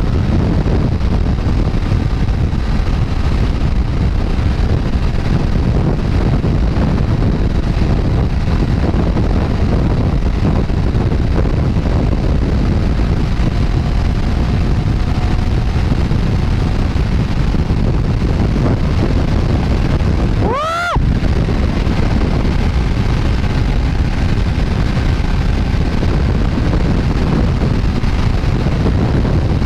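Strong wind buffeting the microphone of a motorcycle ride at speed, a steady heavy rush with the bike's engine running under it. About two-thirds of the way in, a brief tone rises and falls.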